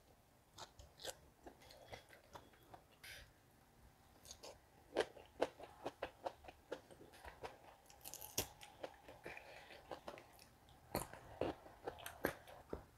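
A person chewing crunchy food close to the microphone: irregular crisp crunches and wet mouth clicks, thickest in the second half.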